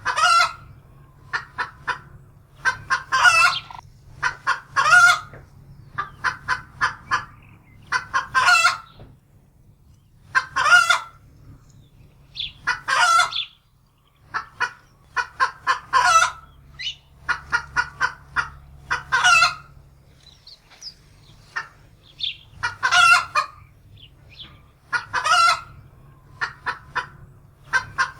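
Domestic hen cackling in alarm: runs of short clucks, each building to a longer, louder squawk, repeated about every two seconds.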